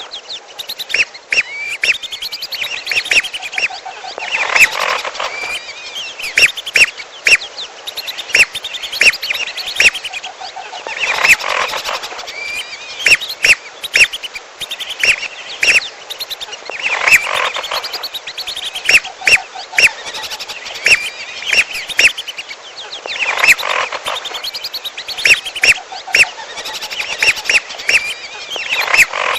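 Bird-lure recording of belibis merah whistling duck calls mixed with piolo bird calls. Sharp whistles and quick chattering notes come in clusters that repeat about every six seconds, like a looped track.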